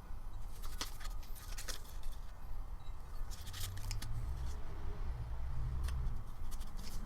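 Hand-cutting material at a workbench: scattered sharp clicks and snips, like scissors or a blade cutting, over low bumping and handling noise.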